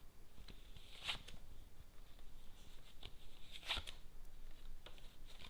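Lenormand cards being handled on the table: a few short papery flicks and rustles, the clearest about a second in and again near four seconds.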